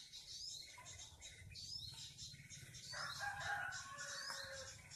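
A rooster crows once, starting about three seconds in and lasting nearly two seconds, ending on a falling note. Small birds chirp high and briefly throughout.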